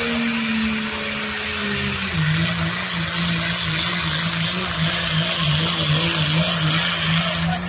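Dodge truck at full throttle dragging a pulling sled, its engine running hard over loud tyre and exhaust noise. About two seconds in the engine note drops in pitch and then wavers, the engine lugging down under the load.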